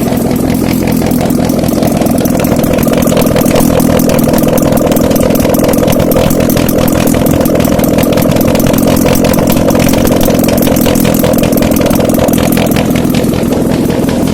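Mitsubishi 4G15 1.5-litre inline-four running on an engine test stand, a steady fast run of even firing pulses. It gets a little louder about two seconds in and eases back near the end.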